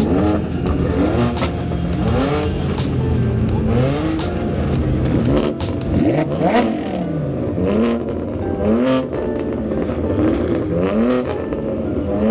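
Car engine revving, its pitch climbing again and again about once every one to two seconds, with one long falling drop about halfway through.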